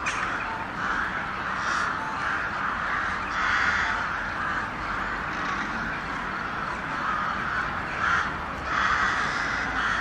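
A flock of crows cawing all at once, the many overlapping calls merging into a continuous din that swells louder a few times.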